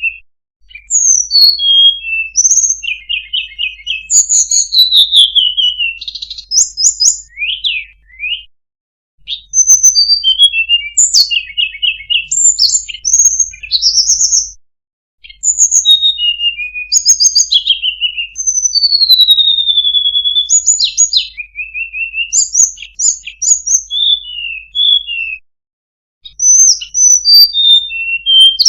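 Sunda robin (tledekan gunung) singing a long, varied song of quick whistled phrases, rapid trills and sliding notes, broken by brief pauses about 8, 14 and 25 seconds in.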